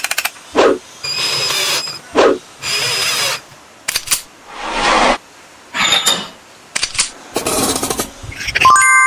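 Tool work in short separate bursts: a small power tool runs briefly several times, with a steady high whine in some runs, and quick knocks and clicks come between the runs.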